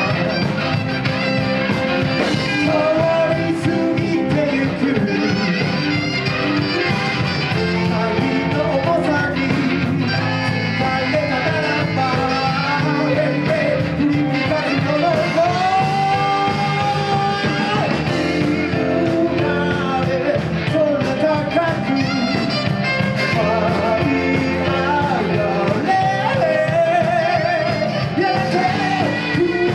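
Live band playing a rock-and-roll style song with a singer, steady and loud.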